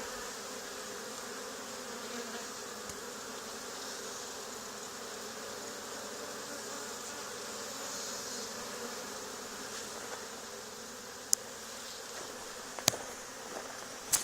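A honey bee swarm buzzing close by: a dense, steady hum of many bees. Two brief sharp clicks come near the end.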